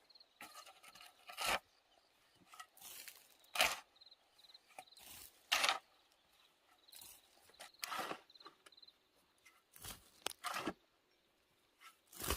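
Irregular scrapes, crunches and sharp cracks, about ten separate strokes with short quiet gaps, from hand work with wood and brush at a shelter build.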